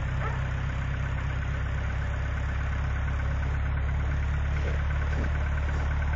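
Truck engine idling steadily just after a hard cold start in sub-zero cold, with a low, even rumble.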